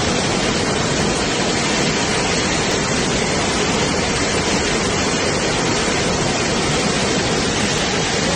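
Fast-flowing floodwater rushing: a loud, steady noise with no break.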